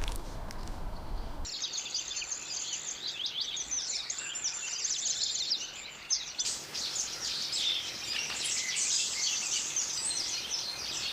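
Low outdoor noise at first, then from about a second and a half in a dense chorus of many small birds chirping over one another.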